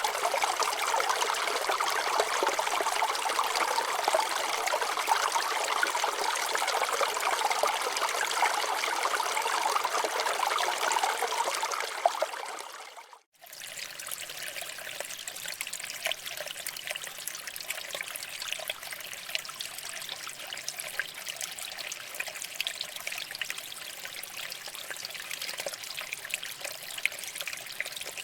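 Water flowing over rocks: a steady trickling, splashing rush. About halfway through it briefly cuts out, then comes back quieter and thinner.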